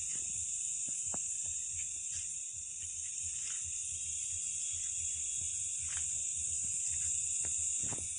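Steady high-pitched chorus of night insects, crickets or similar, buzzing without a break. Faint scattered low knocks and rustles sit underneath.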